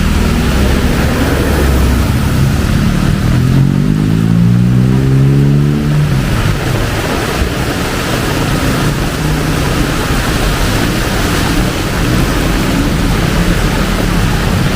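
Heavy rain pouring steadily, with vehicle engines running under it; about three seconds in, one vehicle accelerates, its engine rising in pitch for a few seconds.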